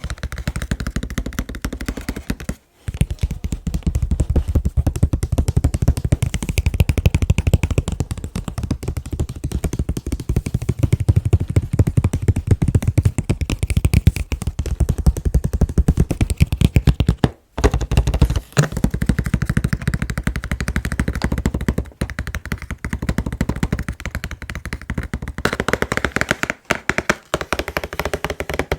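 Fast, continuous tapping on an anime figure's packaging box: a dense run of quick taps, broken by a few short pauses.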